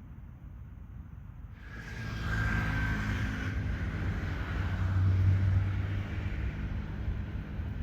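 Airbus A380 airliner's jet engines on landing approach: a low rumble gives way, under two seconds in, to a rushing jet noise with a high whine, swelling to its loudest around the middle.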